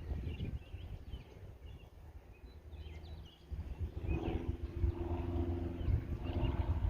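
Outdoor ambience: a low rumble with small bird chirps, then a steady droning hum that comes in a little past halfway.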